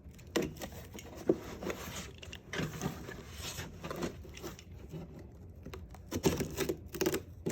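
A sealed cardboard box being cut open with a sharp knife and handled: irregular scrapes, taps and knocks of the blade and hands on cardboard and tape, with a cluster of them near the end.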